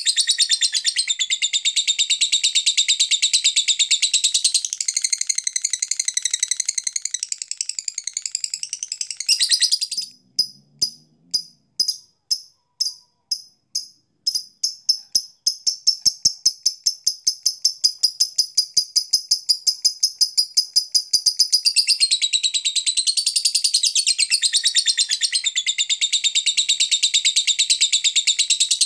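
Lovebird song: dense, high-pitched chattering and twittering. About ten seconds in it breaks into separate sharp chirps, which speed up into a fast, even run of repeated chirps before the dense chattering comes back near the end.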